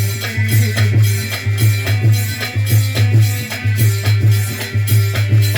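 Instrumental interlude of Indian folk music between sung verses: drums and rattling percussion keep a steady beat over a sustained low note.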